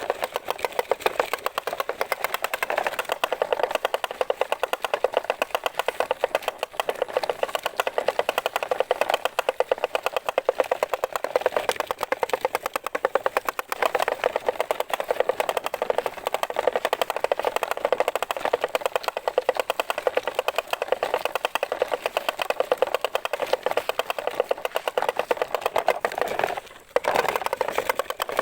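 A small motor running steadily with a fast, even rattling buzz, which cuts out for a moment near the end.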